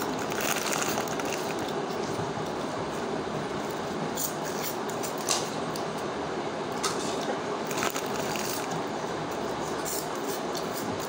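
A steady rushing background noise, with a few sharp crunches of crunchy snacks being bitten and chewed scattered through it.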